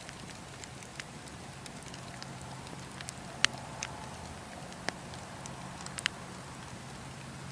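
Wood campfire crackling: scattered sharp pops and snaps at irregular intervals over a steady low hum of burning, with the loudest pop about halfway through and a quick double snap a little later.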